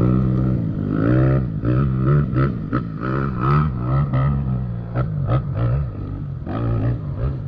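Dirt bike engine revving, its pitch rising and falling again and again as the throttle is worked, with a few sharp clicks.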